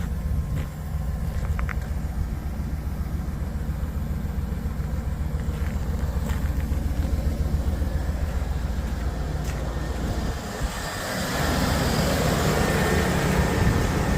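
1999 GMC 1500 Suburban's V8 engine running with a steady, evenly pulsing low rumble; about ten seconds in the sound changes to a louder, rougher rush with more hiss.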